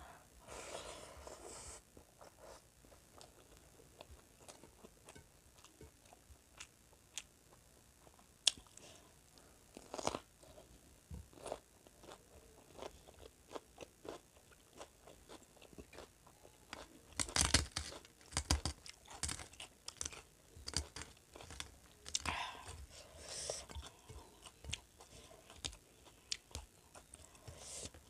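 Close-miked eating sounds of a person chewing a mouthful of rice and curry, with crunches and many small wet mouth clicks. The crunching comes thickest in a run of louder strokes about 17 seconds in, and again a few seconds later.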